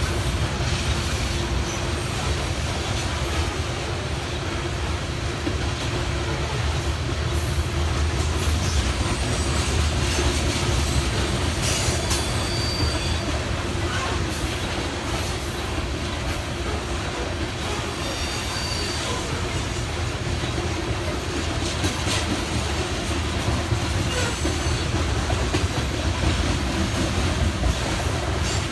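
BNSF grain train's covered hopper cars rolling past: a steady rumble of steel wheels on rail, with a few sharp clacks and a faint wheel squeal.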